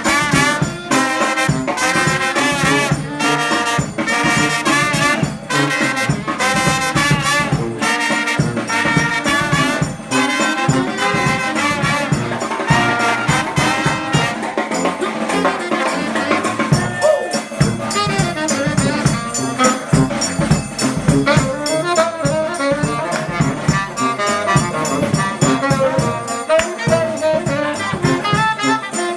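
New Orleans-style brass band playing live: trumpets and trombones over a tuba bass line, with drums keeping a steady beat.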